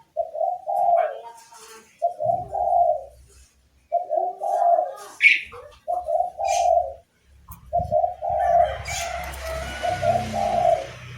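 A bird cooing like a dove: low, about one-second phrases repeated roughly every two seconds, the last one drawn out longer. There is a brief higher whistled note about five seconds in and a hiss during the final two seconds.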